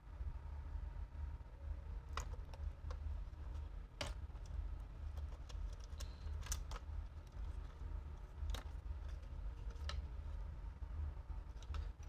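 Scattered light clicks and taps, about a dozen at irregular intervals, from handling a laptop's motherboard and small parts, over a low steady hum.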